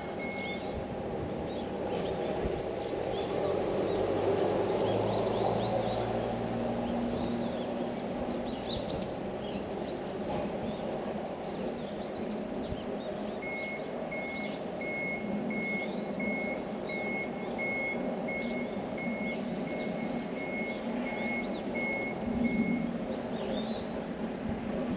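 A vehicle's reversing alarm beeping steadily, about two beeps a second, starting about halfway in, over a low engine rumble and small birds chirping.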